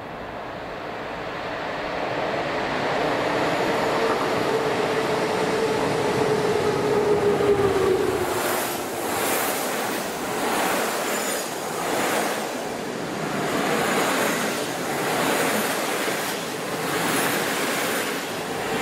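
A train passing close by. It gets louder as it approaches, with a tone that drops slightly in pitch as the locomotive goes past about eight seconds in. The wagons then roll by with a regular rise and fall of wheel noise, about one swell a second.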